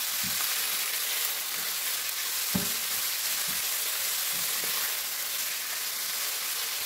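Boneless chicken pieces sizzling in hot oil in a nonstick frying pan, being stirred with a silicone spatula: a steady frying hiss with soft scrapes and taps of the spatula against the pan, and one sharper knock about two and a half seconds in.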